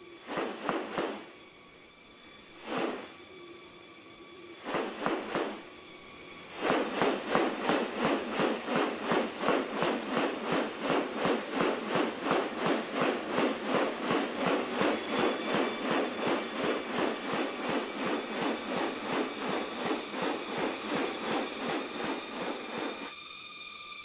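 Rainforest soundscape with a steady high insect drone. A few separate sharp calls or clicks come in the first six seconds, then a long, even run of pulsed sounds at about two a second that stops a second before the end.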